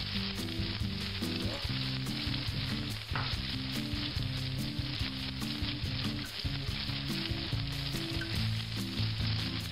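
Chicken breasts sizzling steadily in hot olive and peanut oil in a stainless steel skillet, searing on medium-high heat.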